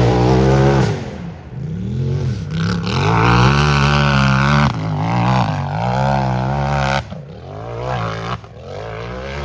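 Unlimited-class UTV (side-by-side) engine at full throttle on a hill-climb run. Its note climbs, drops sharply and climbs again several times as the driver lifts and gets back on the gas over the terrain. It grows fainter toward the end as the machine pulls away.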